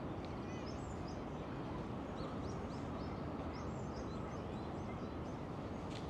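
Small birds chirping, many short high calls in quick succession throughout, over a steady low background hum of the city.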